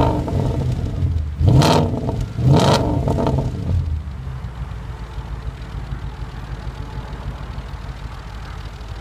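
Audi S4 B7's 4.2-litre V8 blipped twice, about a second apart, each rev rising and dropping quickly, then settling to a steady idle, heard through a catless downpipe and the stock exhaust.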